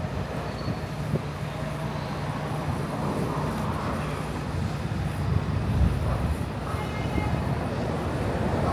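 Steady low rumble of road traffic with no distinct single event.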